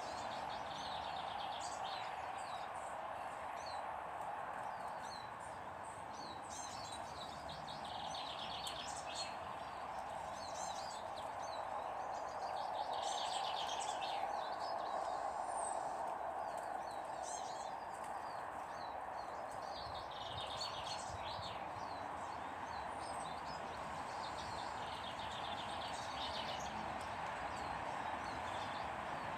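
Birds chirping and twittering in short, repeated bursts throughout, over a steady background rush.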